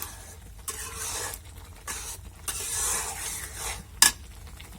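Spatula stirring and scraping a frying onion and spice masala in a pan, in a few long scraping strokes over a light sizzle, with one sharp knock near the end.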